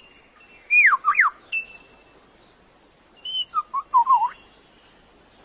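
Male lyrebird singing: whistled notes that slide sharply downward, a short held note, then a quick warbling run, with a few faint clicks mixed in.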